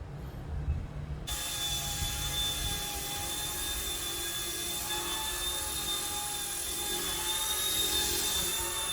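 Micro electric RC helicopter's motor and rotors whining steadily, starting abruptly about a second in after a low rumble.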